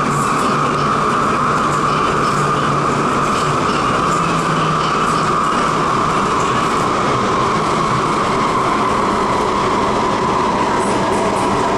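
MTR SP1900 electric multiple unit running on the rails, heard from inside the passenger car. The running noise is loud and steady, with a high whine that drifts slowly lower in pitch.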